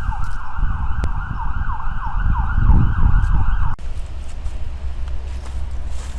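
Emergency vehicle siren in a fast yelp, a quick repeating falling wail about three to four times a second, over a low rumble that swells near three seconds in. The siren cuts off suddenly a little past halfway, leaving a low steady rumble.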